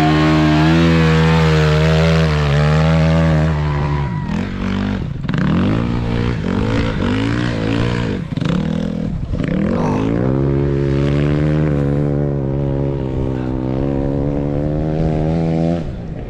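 Motocross bike engines running hard. The engine note holds steady, then rises and falls in a series of revs through the middle before settling into a steady high pitch again.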